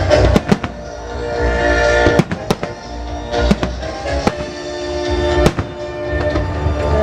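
Fireworks bursting with a string of sharp bangs over loud music of musical-theatre melodies, to which the shells are synchronised.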